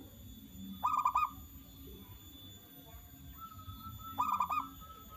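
Zebra dove (perkutut) singing: two short bursts of quick staccato cooing notes, one about a second in and another about four seconds in.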